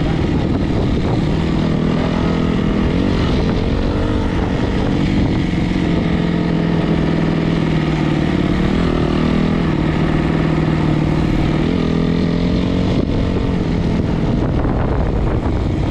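Four-stroke single-cylinder dirt bike engine running continuously, its pitch rising and falling a little a few times with the throttle.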